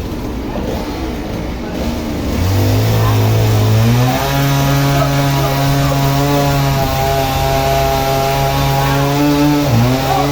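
A motor-driven saw revs up about two and a half seconds in, then runs steadily at high speed, with a brief dip in pitch near the end.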